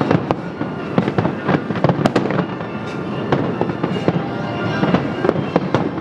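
Aerial fireworks bursting in rapid succession, several sharp bangs a second over a continuous rumble of explosions.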